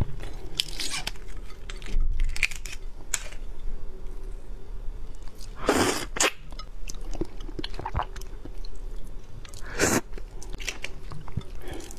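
Close-miked chewing and crunching as the head and shell of a large red shrimp are bitten and chewed, with wet mouth sounds between a few louder crunches, the loudest about six and ten seconds in.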